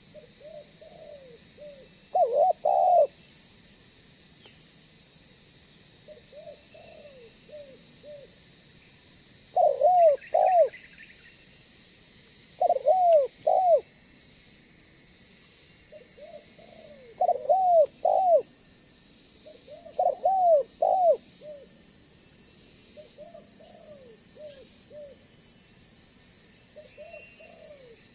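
Spotted dove (tekukur) cooing: phrases repeat about every three to four seconds, each a few soft coos leading into a louder group of coos. A faint steady high hiss runs underneath.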